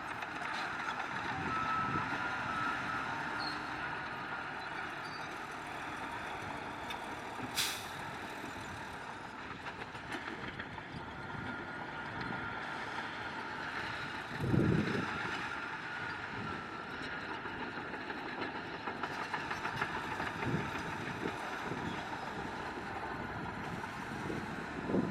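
Heavy diesel earthmoving machinery running steadily: bulldozer and dump truck engines working on a stone fill. A short, sharp air hiss comes about seven seconds in, and a low thud about halfway through.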